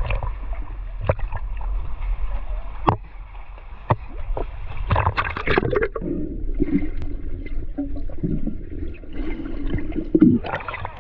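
Sea water sloshing and gurgling around a camera held in the water while snorkeling, with scattered short splashes and knocks. Partway through the sound turns duller for a few seconds, then brighter splashing returns near the end.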